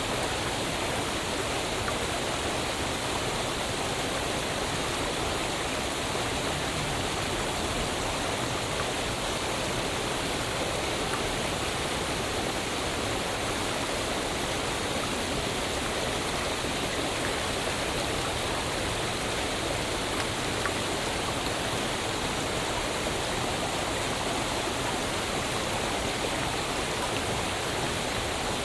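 Waterfall: steady rushing of falling water, an even, unbroken hiss across high and low pitches with no separate splashes or changes.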